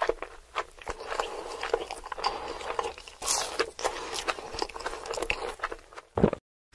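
Crisp crunching and crackling made of many short clicks and scrapes, with louder snaps about three seconds in and just before it cuts out near the end.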